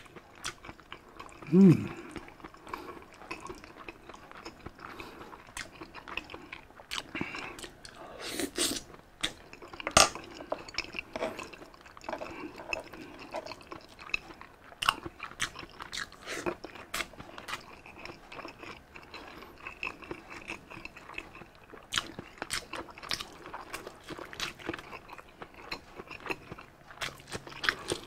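Close-miked chewing and crunching of crispy pork sisig, with many wet mouth clicks and smacks. A short, low vocal grunt falls in pitch about one and a half seconds in.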